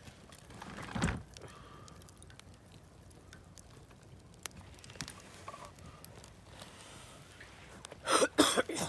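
Wood campfire crackling with scattered small pops. A brief louder swell comes about a second in, and near the end there is a quick burst of several loud knocks.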